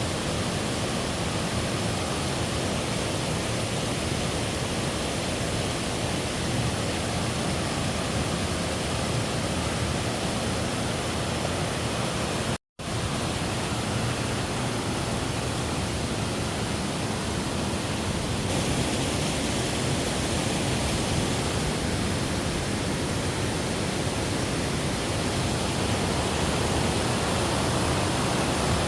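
Steady rushing of a waterfall, broken once about halfway through by a split-second dropout to silence, and slightly louder in the second half.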